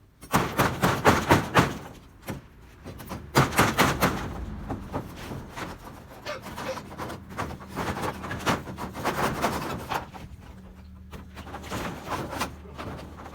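Corrugated iron roofing sheets and roof timbers clattering and banging as they are pulled apart and handled during demolition. The noise comes in bursts of rapid knocks, loudest in the first couple of seconds and again about three to four seconds in.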